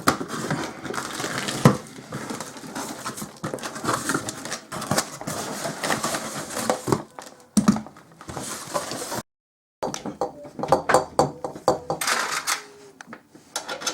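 Irregular clinks and clatter of metal tools and parts being handled, with rustling, with a sudden break about nine seconds in.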